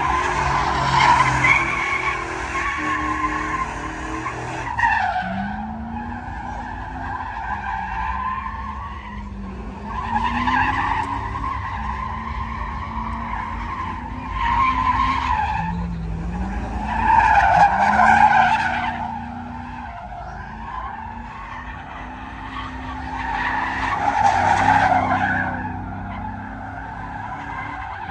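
Truck engine revving hard while its tires spin and squeal on pavement in a burnout. The sound swells and fades in about five surges, the loudest about two-thirds of the way through.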